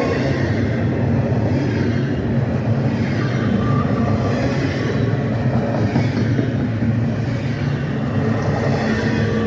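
CSX freight train rolling past: a steady, loud rumble of wheels and cars on the rails.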